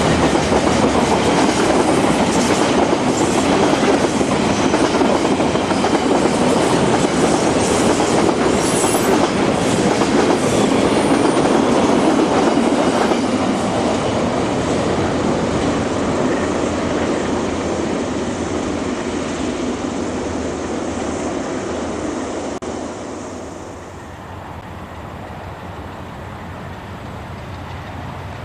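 Freight train wagons rolling past, their wheels clacking over the rail joints, with a brief high wheel squeal about a third of the way through. The rolling noise gradually fades and then drops off abruptly shortly before the end.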